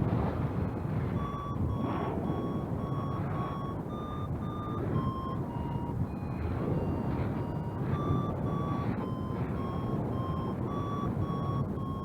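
Flight variometer beeping: short pitched beeps, two to three a second, with the pitch stepping slightly up and down, the sign that the paraglider is rising in lift. Wind rushes steadily over the microphone underneath.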